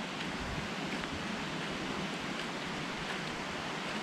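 Steady rush of a small stream flowing over boulders.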